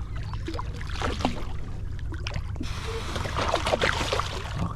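Water splashing and sloshing against a small boat over a steady low rumble, with scattered knocks at first; the splashing becomes dense and louder from about halfway.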